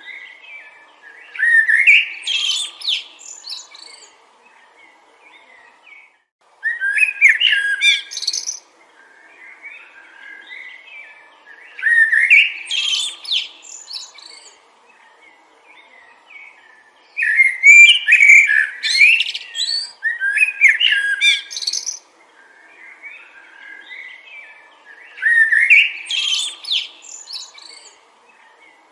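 A songbird singing short, quick, warbling phrases of about two seconds each, repeated every five to six seconds with quiet gaps between them.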